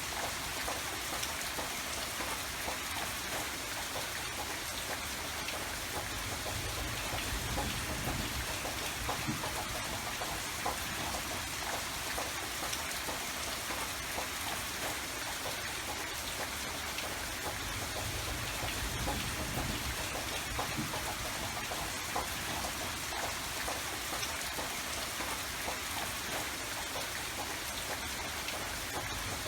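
Steady rain falling, an even hiss with scattered individual drops pattering on surfaces.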